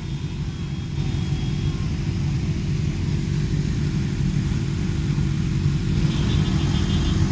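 Motorcycle engines running as a group of bikes rides past, a low steady rumble that grows slightly louder.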